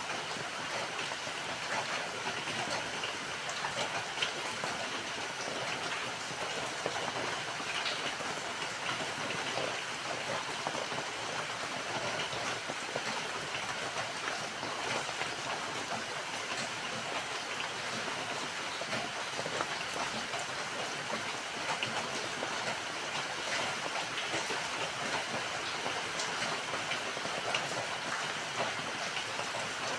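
Steady rainfall, a dense even hiss of drops with many small patters landing on surfaces.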